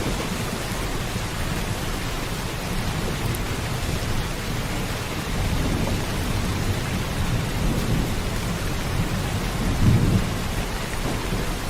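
Steady heavy rain with thunder rumbling low beneath it; the loudest roll of thunder swells near the end.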